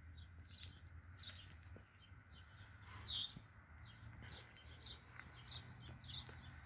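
Several birds chirping and calling faintly: many short high notes and quick whistles, one sliding down in pitch about three seconds in, over a low steady hum.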